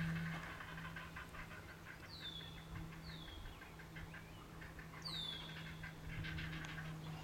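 Birds calling: three high, clear whistles that slide downward in pitch, about 2, 3 and 5 seconds in, and bouts of rapid pulsed chattering at the start and again near the end, over a steady low hum.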